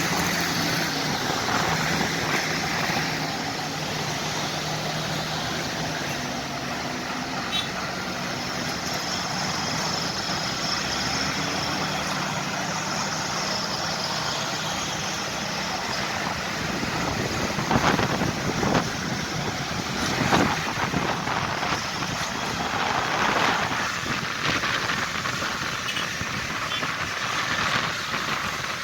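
Tractor engines running, with a steady low engine drone that drops away about halfway through, followed by rougher, uneven noise with a few louder knocks.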